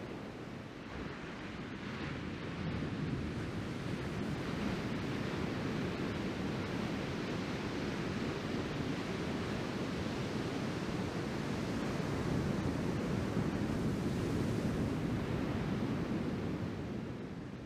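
Ocean surf from a typhoon swell: a steady rush of breaking waves that swells louder a couple of seconds in and eases near the end, with wind on the microphone.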